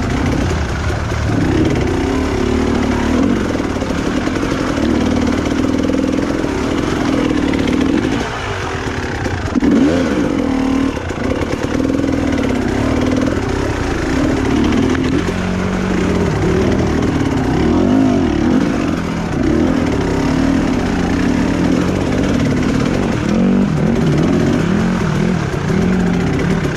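Honda CRF dirt bike engine running under a varying throttle on a trail ride, the pitch rising and falling as it revs up and eases off.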